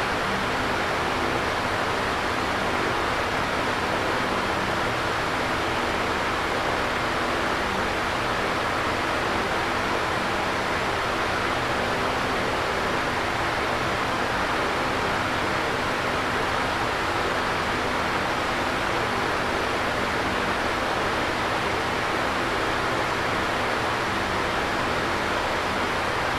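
Electric fan running steadily: an even airy whoosh with a faint low motor hum underneath.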